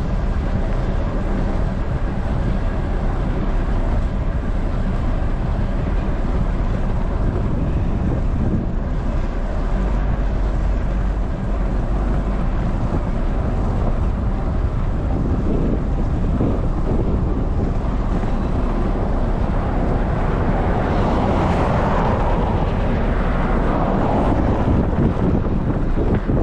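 Wind buffeting the microphone of a bicycle-mounted camera as the bike is ridden: a steady, loud rumble and hiss, swelling about three quarters of the way through.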